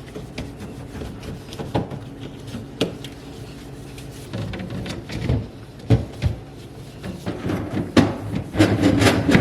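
Clicks and knocks of containers, shelves and drawers being handled while a fridge is cleaned and organized, growing busier and louder in the second half. A steady low hum runs underneath.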